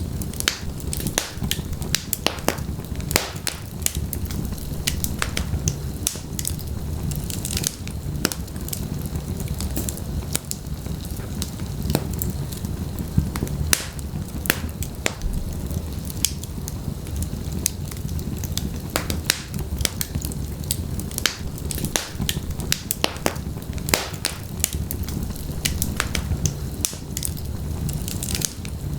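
Wood fire in a fireplace burning, with frequent irregular sharp crackles and pops over a steady low rumble of flames.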